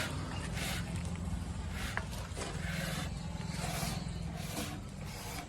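Heavy diesel engine running steadily with a low, evenly pulsing hum, overlaid by several short hissing rushes about a second apart.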